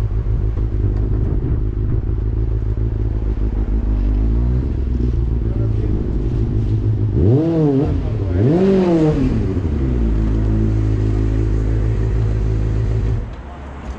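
Kawasaki motorcycle engine running at a steady low speed, revved hard twice in quick succession, the pitch rising and falling each time, about halfway through. The engine note drops away near the end.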